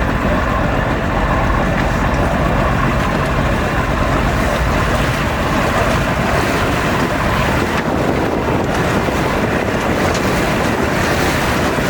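Steady rushing noise of wind buffeting the microphone, heaviest in the low end, with no distinct calls.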